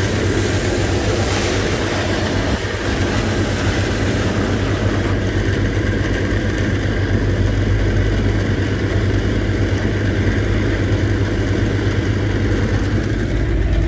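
Engine running steadily under load, driving a sand pump that draws sand slurry out of a boat's hold, with a strong low hum and a steady rushing noise over it.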